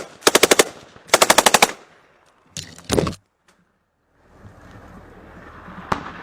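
Two short bursts of rapid automatic machine-gun fire in the first two seconds, about a dozen rounds a second. After a sudden drop-out, a steady rushing noise follows with a single sharp shot near the end.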